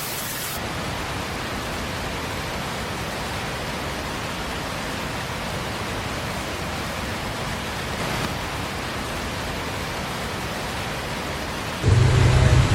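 Steady, even hiss of heavy rain or rushing water. Near the end a louder low rumble with a steady hum cuts in abruptly.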